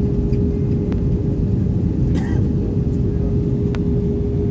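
Airliner cabin noise in flight: a steady, loud low roar of engines and airflow with a constant hum. A few faint ticks come through it.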